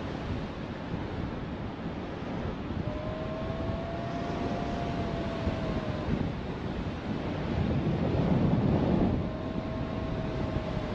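Strong wind buffeting the microphone in flight, with a louder gust a little past the middle. A thin whistling tone rises in twice, for about three seconds near the middle and again near the end.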